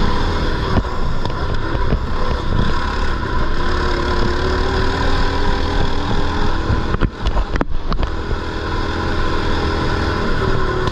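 Mini bike's small engine running under throttle while riding on a dirt track, its pitch slowly rising. About seven seconds in there is a short dip in the sound with a few sharp clicks.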